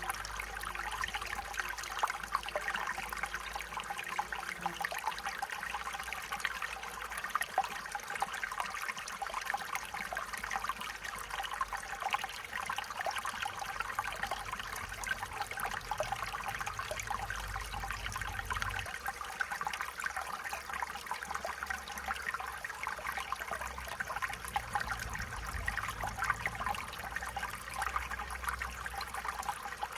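Stream water trickling and babbling over stones, a steady flow.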